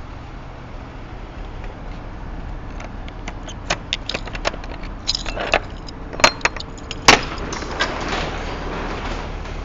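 A steady low engine hum runs under a string of short clicks and knocks, like handling metal and latches. The two loudest, sharpest knocks come about six and seven seconds in.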